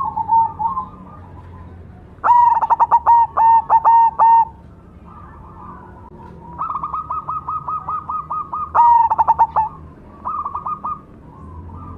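Zebra dove (perkutut, black cemani variety) singing: phrases of quick, rapidly repeated cooing notes, loudest about two seconds in and again around nine seconds, with softer phrases between.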